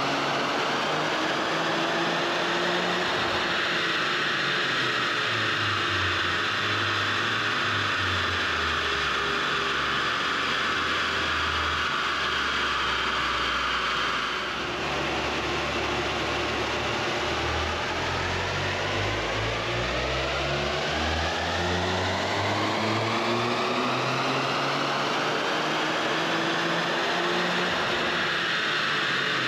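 Toyota GR Yaris's turbocharged 1.6-litre three-cylinder engine pulling hard on a chassis dyno. Revs climb and hold high, fall away sharply about halfway through, then climb slowly and steadily again toward the end.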